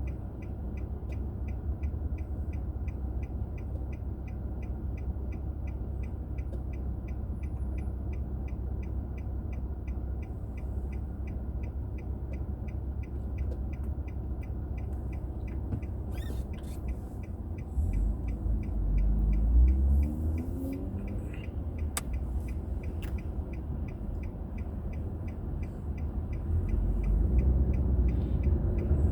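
Car turn-signal indicator clicking steadily, a few clicks a second, over the low rumble of the engine and road heard inside the cabin. About two-thirds of the way through, the engine speeds up with a rising pitch as the car pulls away, and the rumble grows louder again near the end.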